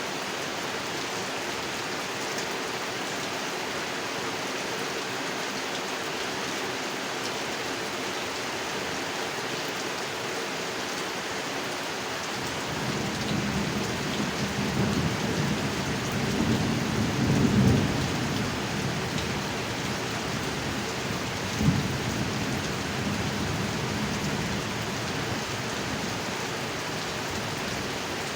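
Steady heavy rain falling on a pond. About halfway through, a low roll of thunder builds and peaks, followed a few seconds later by a short sharp thunderclap, then the rumble fades back into the rain.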